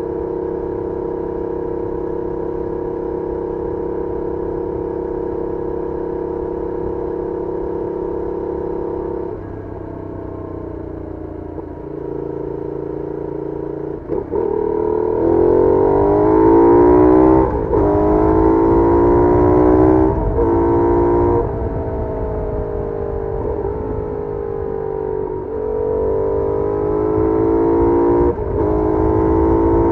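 Benelli Leoncino 800's 754 cc parallel-twin engine through its stock exhaust, heard onboard: it idles steadily for about nine seconds. It then pulls away, rising in pitch several times with short dips in between as it shifts up through the gears.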